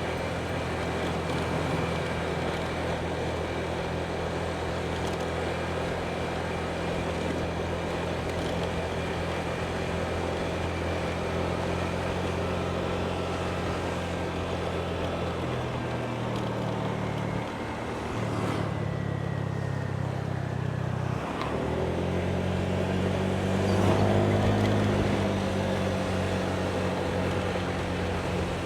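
Motorbike engine running under way with road and wind noise. The engine note dips briefly twice in the second half as the throttle eases, then rises and gets louder as the bike accelerates near the end.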